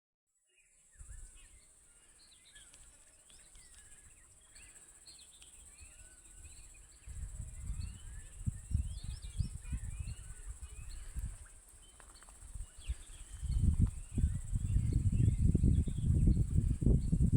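Birds chirping and calling over a steady high-pitched insect drone. A low, irregular rumbling grows louder from about seven seconds in and becomes the loudest sound near the end.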